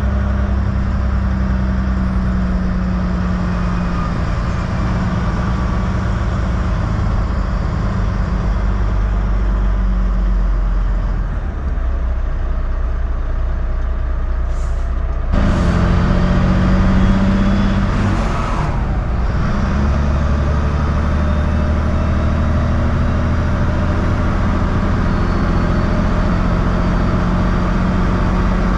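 2006 Volvo 880 semi truck's diesel engine droning steadily under way. A little past halfway, a loud hiss lasts about three seconds.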